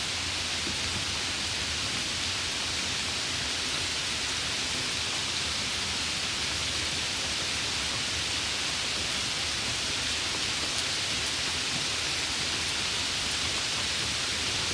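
Steady rain falling, an even hiss that holds the same level throughout, with no distinct drops or thunder standing out.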